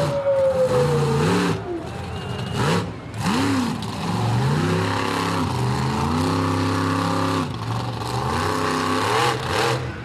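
Monster truck engine revving hard and dropping back several times, with one longer held rev in the middle and a couple of brief knocks early on.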